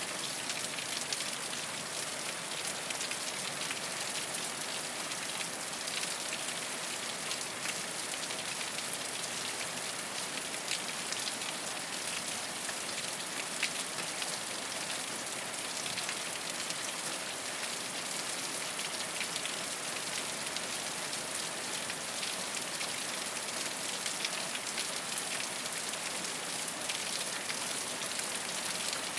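Steady rain falling on a rooftop, a dense even patter of drops.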